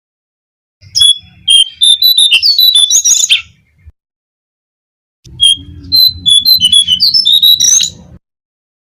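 Recorded song of the jongkangan (cingcoang coklat), a bird-lure call: two phrases of about three seconds each of rapid, jumbled high twittering notes. A low hum lies under the song.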